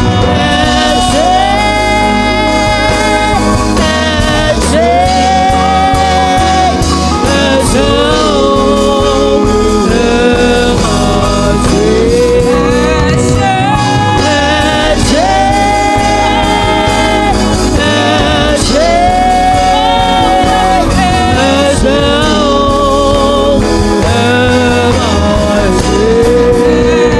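Live gospel worship band playing, keys, drums and bass under a lead melody of long held notes with vibrato.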